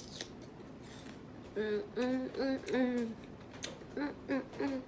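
A woman's voice humming a short wordless tune of several brief notes, starting about one and a half seconds in. A few faint clicks come before it.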